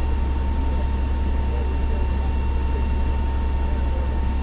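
Fire engine's engine running steadily, a low drone with a faint steady whine above it, heard from inside the cab.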